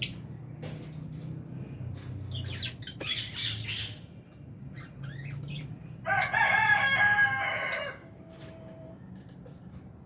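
Lovebirds in an aviary giving shrill, scratchy chirps and calls. About six seconds in, one loud drawn-out call lasts about two seconds and drops in pitch at the end.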